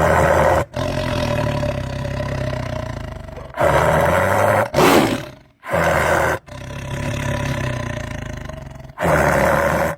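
A large animal giving a run of long, low calls separated by short breaks, with one brief, harsher, higher-pitched call about five seconds in.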